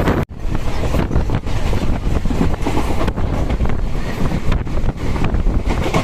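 Wind blasting across the microphone over the rumble of a moving MEMU electric train, with a brief cut in the sound just after the start.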